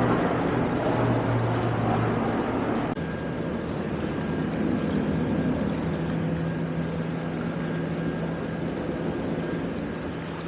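Steady mechanical drone with a low hum under a wash of noise, shifting abruptly in pitch and colour about three seconds in.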